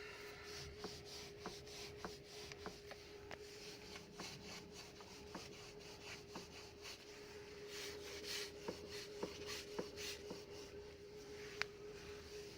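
Knocking in a Skoda Rapid's steering: a long run of light, sharp knocks, about two a second and somewhat irregular. The owner calls it an unexplained knock that has newly appeared.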